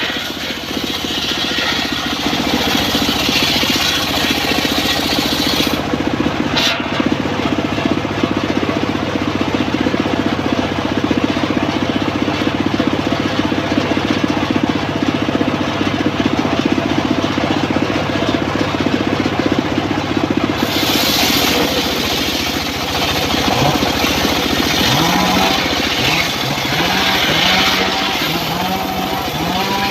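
Engine of a homemade circular-saw sawmill running steadily. Past the middle, a pitch rises in short repeated sweeps, about one a second.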